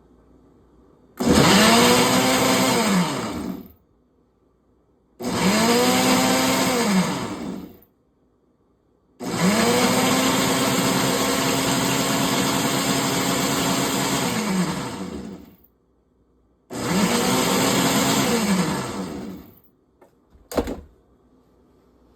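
Electric blender run in four pulses, the motor spinning up to a steady whir and winding down after each; the third run is the longest, about six seconds. A brief short burst follows near the end.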